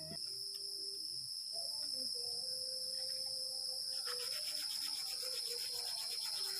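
Steady high-pitched chorus of insects such as crickets in the forest, with faint wavering lower tones underneath. From about four seconds in, a fine rapid pulsing joins it.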